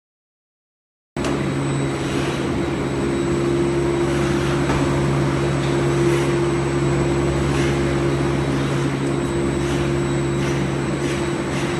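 Steady running noise of a motor vehicle, a constant low hum under an even rush. It starts abruptly about a second in after silence.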